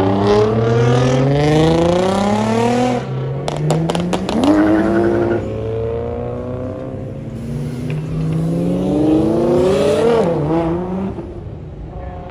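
Car engines revving hard as cars accelerate away, pitch climbing steadily through the gears. About three seconds in, the revs cut off with a quick run of sharp cracks. A second long acceleration climbs and peaks about ten seconds in.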